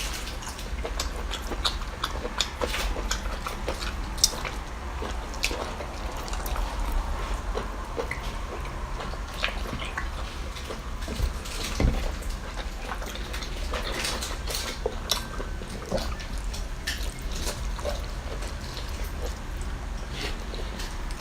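Wet eating and seafood-handling sounds: irregular squelches, drips and sharp clicks over a steady low hum.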